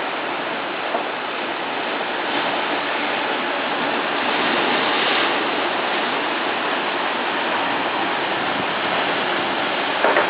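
Steady, even rushing of moving water with no distinct events, a faint click about a second in.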